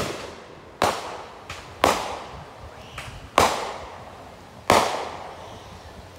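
Aerial fireworks bursting overhead: about half a dozen sharp bangs at uneven intervals, some louder than others, each trailing off in an echo.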